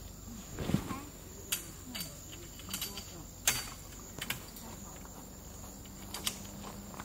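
Crickets chirping in a steady high-pitched drone, with several sharp clicks and knocks scattered through it; the loudest is about three and a half seconds in.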